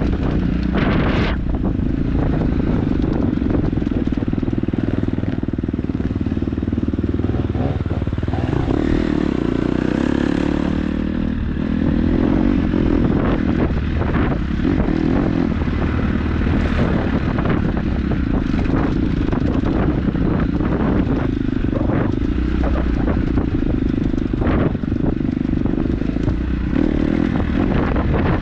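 KTM 250 dirt bike engine running while riding a trail, its pitch rising and falling with the throttle, with scattered knocks from the rough ground.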